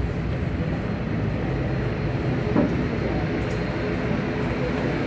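Steady low rumble of jet aircraft engines at the airport, with a faint thin whine above it.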